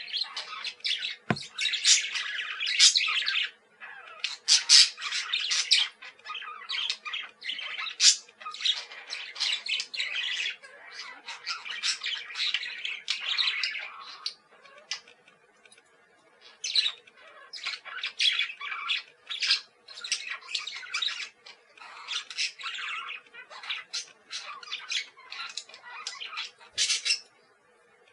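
Budgerigar chattering and squawking in fast, scratchy runs of short calls, broken by a few brief pauses.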